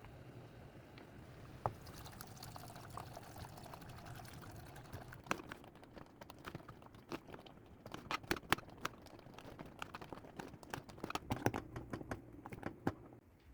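Kitchen handling sounds during cooking prep: irregular light clicks and knocks of utensils and containers, growing busier from about five seconds in.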